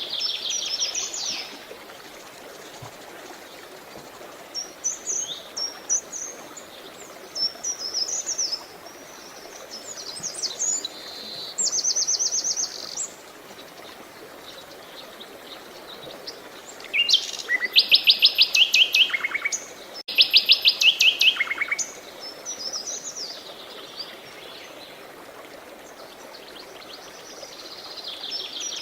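Songbirds singing a series of chirping phrases and fast trills, the loudest trills coming about two-thirds of the way through, over a steady background rush of flowing water.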